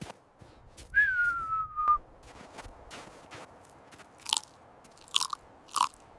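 Crunching, chewing-like clicks and snaps, with a single whistle-like tone about a second in that slides slowly down in pitch, and three louder crunches near the end.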